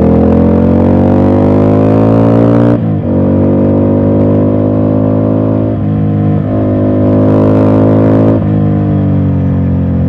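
Ducati Scrambler's air-cooled L-twin engine pulling under throttle, its note rising until a gear change about three seconds in. It pulls again with another brief break about six seconds in, then falls in pitch near the end as the throttle closes.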